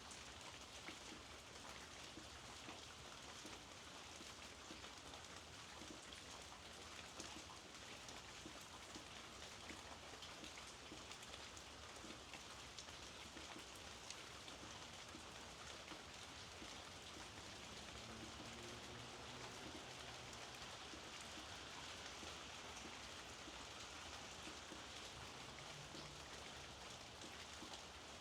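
Steady, soft rainfall, with many small drops ticking on surfaces.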